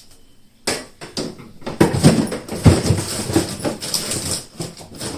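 Plastic fridge containers and trays being handled, giving a string of irregular knocks and clatters, the loudest about two seconds in.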